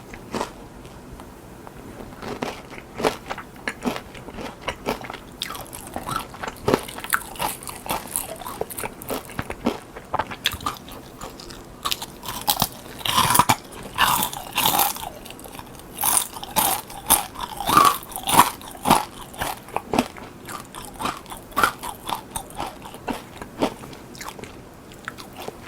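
Close-miked eating sounds: crisp battered fried shrimp being bitten and chewed, with many sharp crunches that come thickest in the middle.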